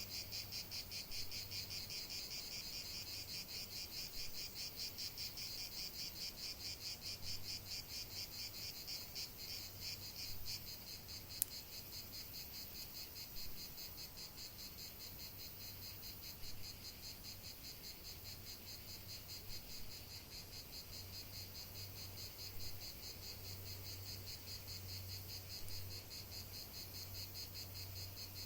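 Crickets chirping steadily in a fast, even pulse, with one sharp click about eleven seconds in.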